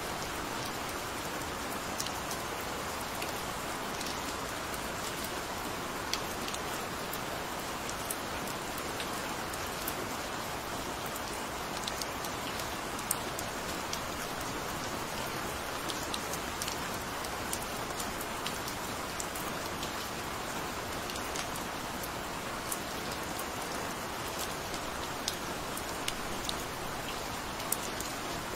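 Steady, gentle rain: an even hiss of falling rain with scattered sharp drop ticks.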